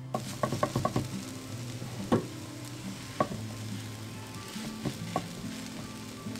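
Cabbage and gram-flour paratha stuffing sizzling in a non-stick kadai as it is stirred with a silicone spatula. There is a quick run of spatula taps against the pan in the first second, then single taps about two, three and five seconds in.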